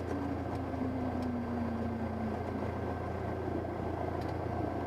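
Cabin sound of a Cessna 172S's four-cylinder Lycoming engine running at low power while taxiing after landing: a steady drone, with one tone sinking slowly in pitch over the first two seconds.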